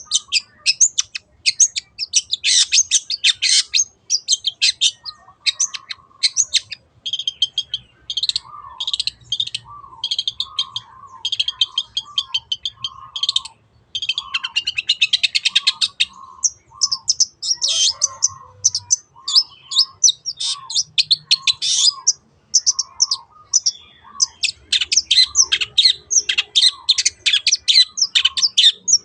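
Long-tailed shrike (cendet) singing a rapid, scratchy, high-pitched chattering song in dense bursts, with a lower short note repeated about once a second from about five seconds in.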